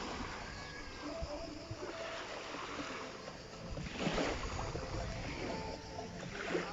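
Outdoor beach ambience: a steady rushing of wind or surf, swelling about four seconds in, with faint distant voices.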